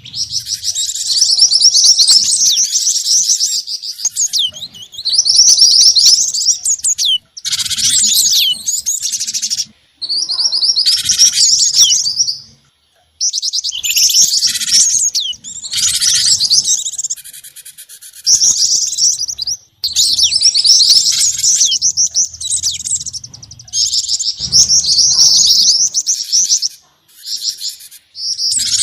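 Bird-lure recording of small songbirds' rapid, high-pitched chirps and trills, a mix of gelatik batu, jingjing batu and mantenan calls. It plays in blocks of a few seconds that stop abruptly, with short silent breaks between them.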